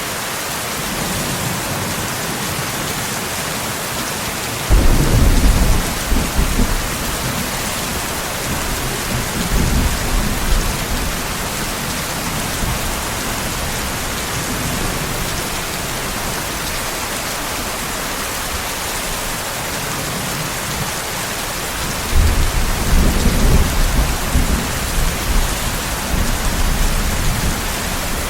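Steady rain hiss with two rolls of thunder. The first low rumble starts suddenly about five seconds in and fades over several seconds; the second begins about twenty-two seconds in and is still rumbling at the end.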